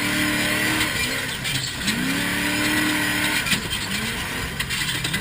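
Off-road vehicle engine under throttle: its pitch climbs about two seconds in, holds, falls off, then climbs again near the end, over a steady hiss.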